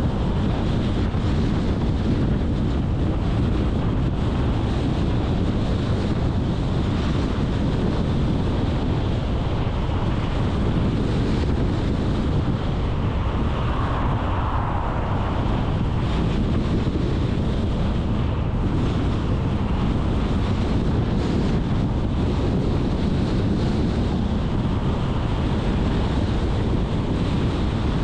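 Steady rumble of a car being driven, with road and engine noise and wind buffeting the microphone on a windy day.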